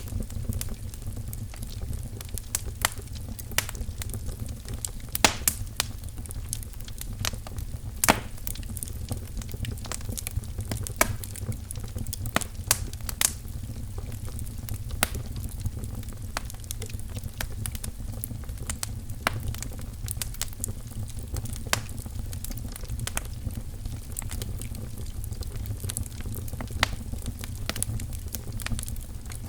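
Wood fire crackling in a fireplace: irregular sharp pops and snaps over the steady low rumble of the flames.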